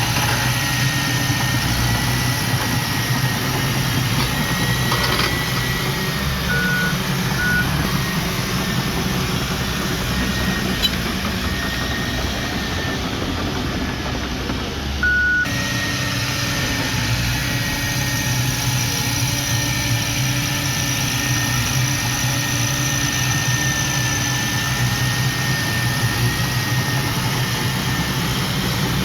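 Diesel engine of heavy earthmoving machinery running steadily with a thin high whine, broken by a few short high beeps. The sound changes abruptly about halfway through.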